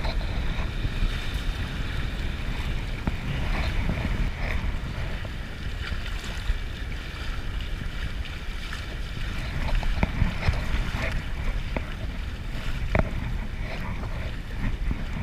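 Wind buffeting the camera microphone over the sound of river water moving around a kayak, with a few light knocks near the end.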